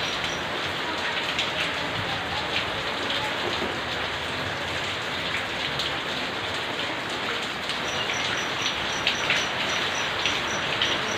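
Steady rain falling, a dense even hiss with single drops ticking through it. From about eight seconds in, a faint high chirp repeats about three times a second.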